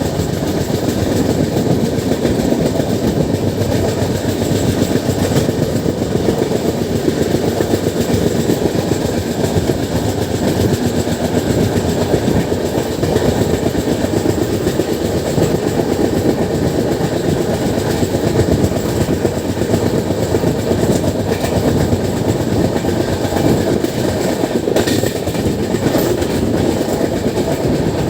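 Passenger train running through at speed: a steady rumble of wheels on the track with clickety-clack.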